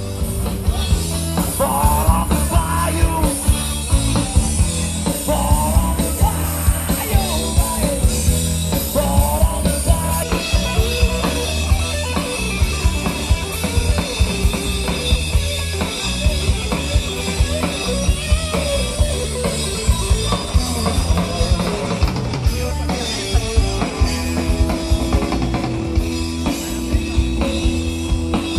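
Rock music with a steady drum-kit beat, and a singing voice over the first ten seconds or so.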